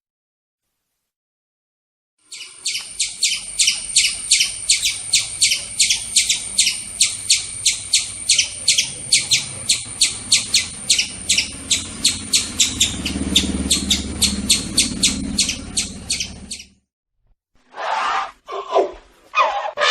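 A bird giving a long run of rapid, evenly spaced high chirps, about three a second, starting a couple of seconds in and stopping abruptly, with a few shorter calls near the end.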